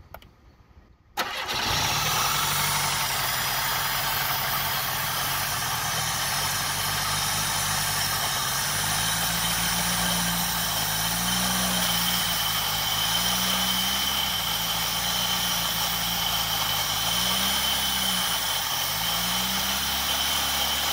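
Oldsmobile Firenza's throttle-body-injected engine starting about a second in and then running, its speed rising and falling several times, with a steady high whine. The owner puts the car's trouble down to a bad fuel pump.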